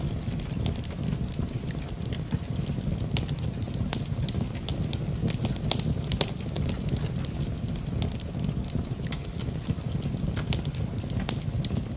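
Wood fire burning in a fireplace: a steady low rumble of flames with frequent, irregular sharp crackles and pops of the burning logs.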